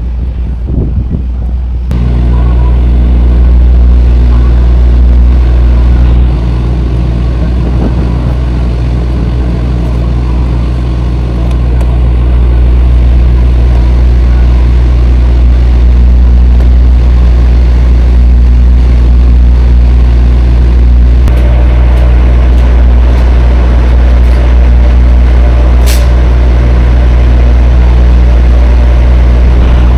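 Semi-truck's diesel engine running steadily, heard from inside the cab. It gets louder about two seconds in.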